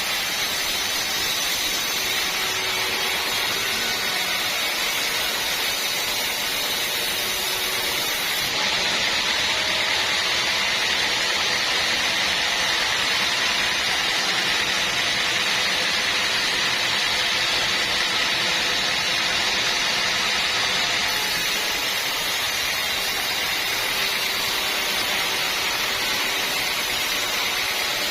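Sawmill saw running steadily: a continuous, even mechanical hiss and whine, with most of its sound high up and no breaks.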